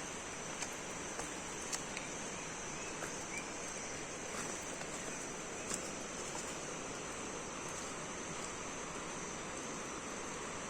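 Steady insect chirring, a constant high buzz, over an even hiss of outdoor background noise, with a few faint clicks.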